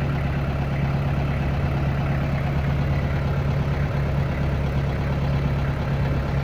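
Kubota M9000 tractor's diesel engine running steadily at a low, even speed.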